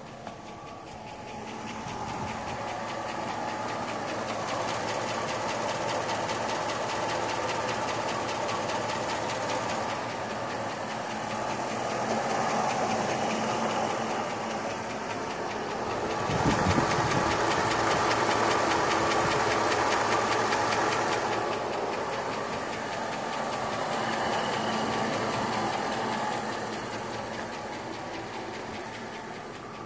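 Supercharged 5.3-litre LS V8 idling at about 500 rpm, fully warmed up, with a rapid, steady valve-train ticking that is the loudest thing in its sound. The ticking grows louder to a peak about halfway through, then fades toward the end.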